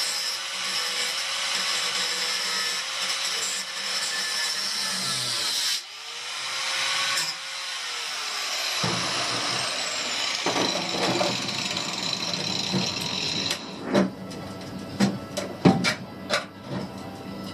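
A handheld electric power tool runs with a dense, hissing whine, cuts out just before six seconds in and spins straight back up. It stops about thirteen and a half seconds in and is followed by a string of sharp metallic clanks and knocks.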